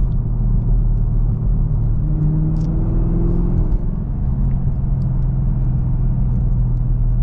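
Camaro ZL1's supercharged V8 running steadily at low revs while the car is driven, heard from inside the cabin.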